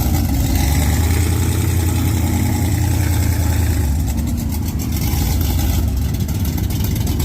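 Mud truck engine running steadily, its deep low note the loudest thing throughout.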